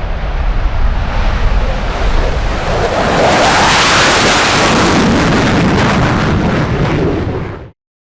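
Fighter jet engine roar, swelling loud about three seconds in, with wind buffeting the microphone; it cuts off abruptly near the end.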